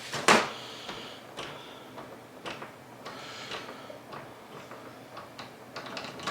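Plastic clicks and taps from an electronic pet door being handled: a sharp click just after the start, then scattered lighter clicks, a few bunched together near the end.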